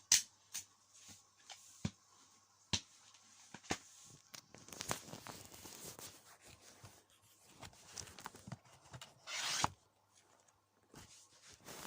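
A plastic DVD case and its cardboard slipcover being handled: a few sharp plastic clicks, then rustling and rubbing, with one loud sliding scrape a little over nine seconds in.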